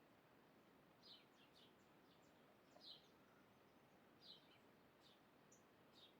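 Faint, short high bird chirps, a few isolated notes every second or so over a quiet background hiss.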